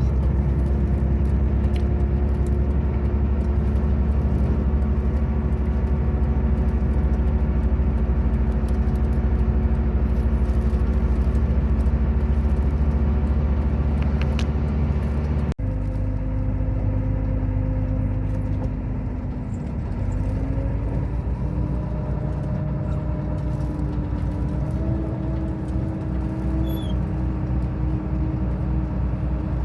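Loaded Hino FM8J truck's diesel engine running at a steady road speed. After a cut about halfway through, its pitch rises in two steps.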